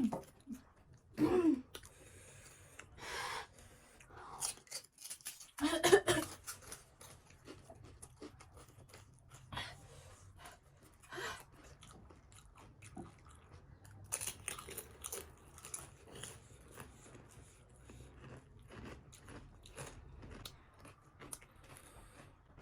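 Close-up chewing and crunching of crisp panipuri shells, a run of irregular crackles and mouth sounds, with two louder bursts about a second in and about six seconds in.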